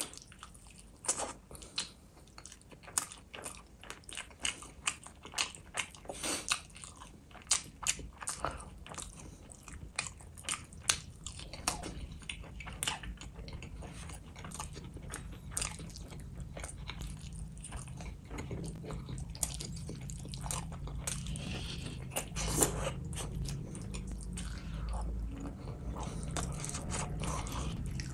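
Close-miked eating of fish curry and rice by hand: wet chewing and lip smacks, with many sharp clicks over the first half that give way to steadier, denser chewing later on.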